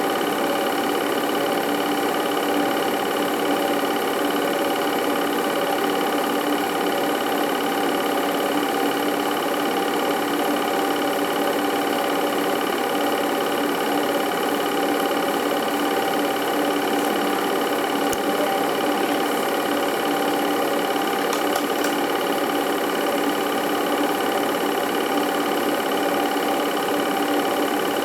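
Home-movie film projector running steadily, a constant mechanical whir and clatter with a fixed hum.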